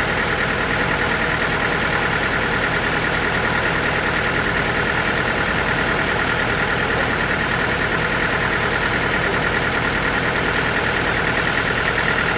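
Sawmill machinery running steadily: a constant mechanical drone with a steady high whine over it.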